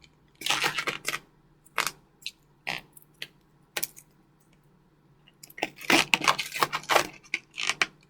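Latex modelling balloons being handled and twisted: short rubbing and crackling bursts of latex against latex and hands, scattered at first and coming thick and fast for a couple of seconds near the end.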